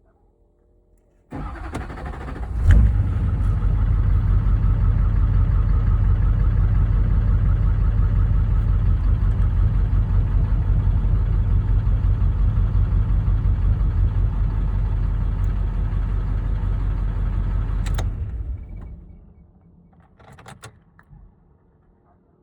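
6.6L LLY Duramax V8 turbodiesel cranking on its starter for about a second and a half, catching with a loud burst, then idling steadily for about fifteen seconds before it is shut off and runs down. The owner calls this start a hard start. A few faint clicks follow near the end.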